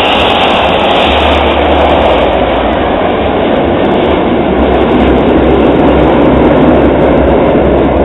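Jet noise from the Red Arrows' BAE Hawk T1 aircraft flying their display, a loud steady rush with no break.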